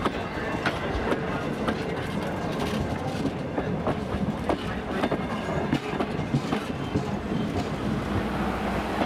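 Passenger coaches of a heritage steam train rolling past close by: steady wheel-on-rail rumble with an irregular clickety-clack of steel wheels clicking over rail joints.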